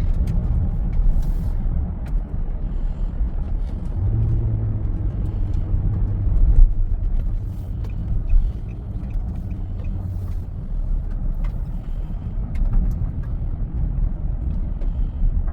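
Steady low road and engine rumble inside a moving car, with a low steady hum that joins in about four seconds in and fades about ten seconds in.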